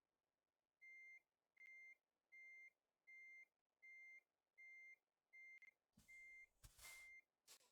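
Truck reversing alarm giving about nine even single-pitched beeps, a little more than one a second. Near the end a couple of short hissing, knocking bursts sound over the last beeps.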